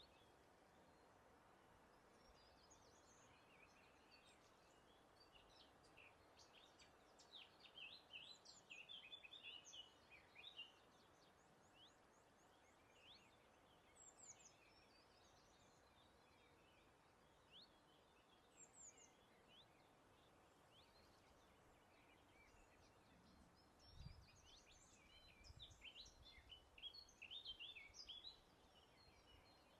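Faint songbird song: quick chirps and short trills, busiest in two bouts, one in the first half and one near the end, over a soft steady hiss.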